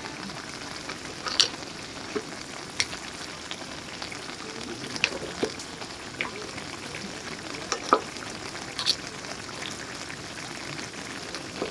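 Food sizzling in a pan, with a steady hiss and occasional sharp clicks and pops, the loudest about a second and a half in and near eight seconds in.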